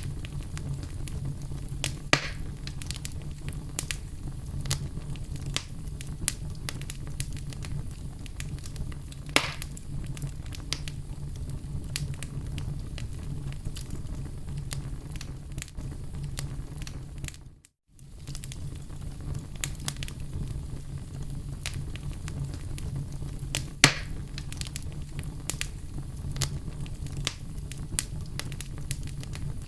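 Wood fire burning in a fireplace: a steady low rumble of flames with frequent sharp crackles and pops from the logs, a few of them louder. The sound drops out to silence for a moment a little past the middle.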